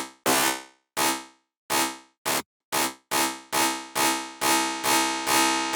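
A short hit played again and again through a delay with a very short time and high feedback, each ringing out as a buzzy pitched tone on one steady note. There are about a dozen hits, and the tails grow longer as the feedback is raised.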